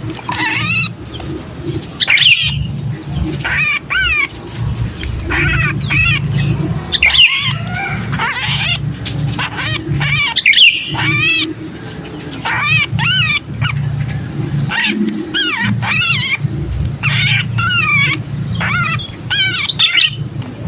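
Sooty-headed bulbuls (kutilang) giving agitated distress calls in quick, rapidly warbling bursts, one after another. These are the 'trapped bird' (kejepit) calls used to lure wild bulbuls. A low hum runs underneath.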